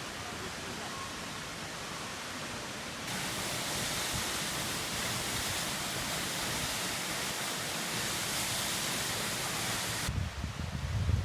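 Waterfall: a steady rush of falling water, stepping up louder and brighter about three seconds in and dropping back near the end, where low gusts of wind rumble on the microphone.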